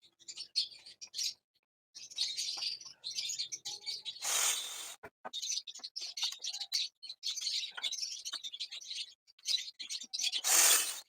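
Small birds chirping rapidly and continuously, with two short rushing noise bursts, one about four seconds in and one near the end.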